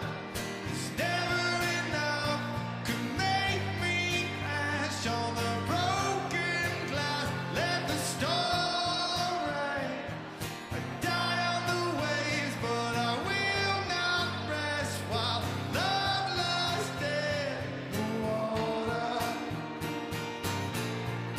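Live rock band playing a slow song: guitars over a steady bass with a sung vocal line.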